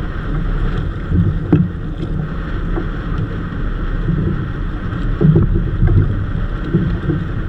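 Wind buffeting the microphone over water sloshing against a small wooden outrigger boat, with a few light knocks from the hull.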